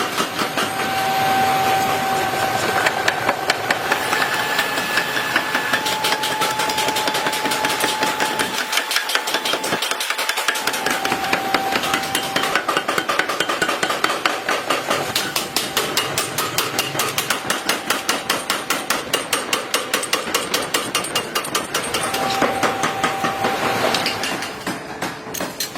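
Rapid, steady hammering on metal, about four or five blows a second, with a brief metallic ring now and then.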